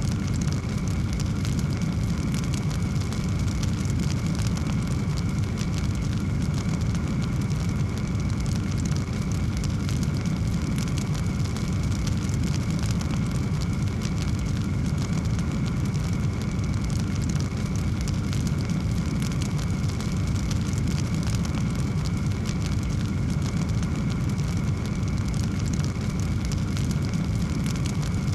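Wood fire burning in a fireplace: a steady low rumble under many small, quick crackles.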